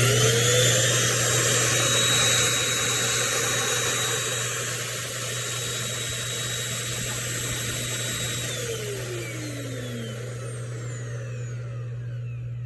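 High-speed vacuum fan motor of a Dreame L10s Ultra robot vacuum system running at full speed with a loud rush of air and a high whine, then spinning down about eight and a half seconds in, its pitch falling away.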